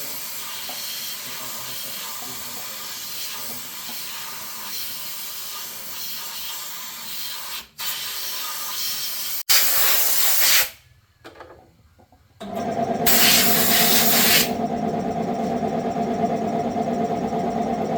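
Steady hissing spray for about nine and a half seconds, broken by abrupt cuts. After a short near-silent gap, a steady mechanical running noise with a hum starts about twelve seconds in, joined by a loud hiss for about two seconds.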